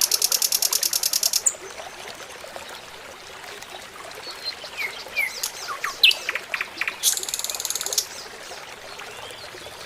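Birds chirping, with a fast buzzy trill in the first second and a half and another about seven seconds in, and short scattered chirps between.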